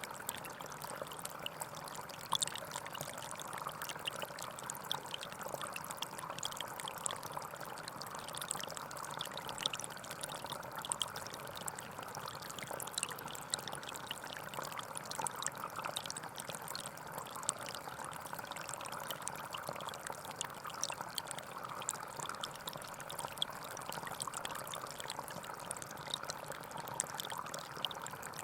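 Gentle forest stream flowing steadily, a constant rush of water with many tiny trickling splashes.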